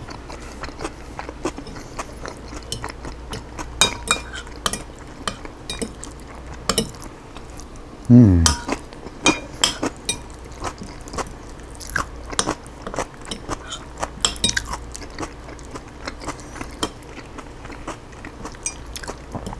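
Eating utensil clicking and scraping against a dish in many short, irregular taps while chicken salad is eaten, with a brief vocal sound about eight seconds in.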